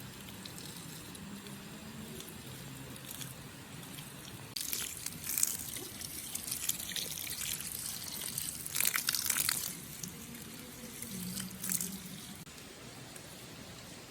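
Water splashing and trickling in irregular spells through the middle, over a steady background hiss.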